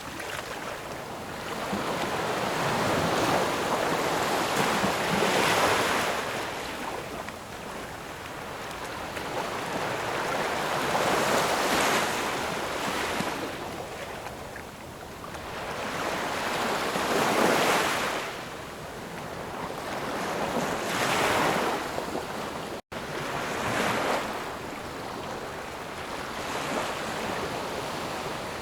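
Ocean waves breaking and washing up the shore, the surf swelling and ebbing about every five or six seconds. A split-second dropout in the sound comes about two-thirds of the way through.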